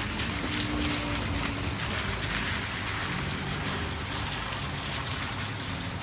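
Heavy rain pouring down in a steady rush, with a faint low hum underneath.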